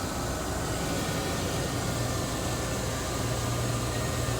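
Pickup truck engine idling steadily, with a low hum that grows a little stronger about halfway through.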